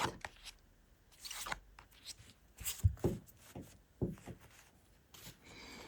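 Tarot cards being handled: a few short, faint rustles and slaps as cards are drawn and laid down.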